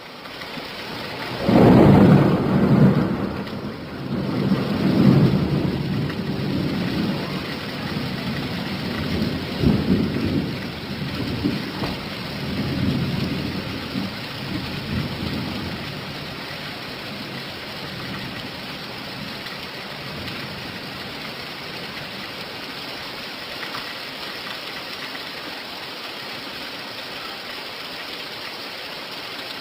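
Steady rain with a long roll of thunder that breaks about a second and a half in, rumbles on in several swells and dies away about halfway through, leaving the rain alone.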